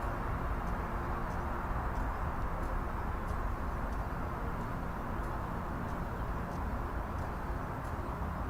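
Campfire burning: a steady rushing noise with faint, scattered crackles and pops.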